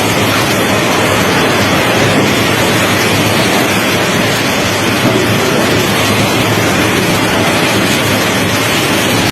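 Heavy rain pouring down in strong wind: a loud, steady rush of noise.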